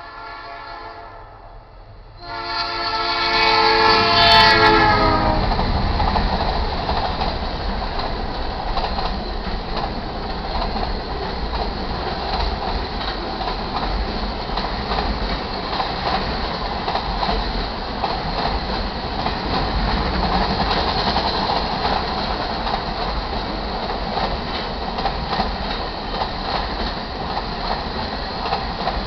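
BNSF C44-9W diesel locomotive's air horn sounding a short blast, then a longer, louder blast starting about two seconds in. Then the steady clatter and rolling noise of the auto-rack train passing over the crossing.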